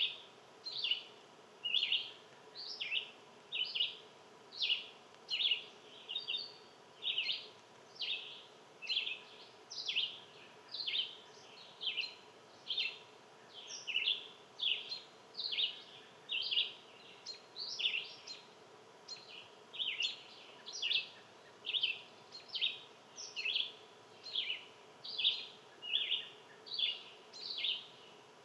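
A small animal's sharp 'chip' call, repeated steadily about twice a second, each note a quick downward sweep.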